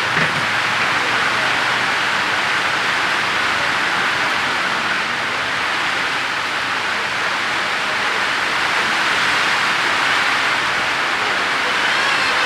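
Heavy rain pouring down steadily, an even hiss without break. A short knock sounds just after the start.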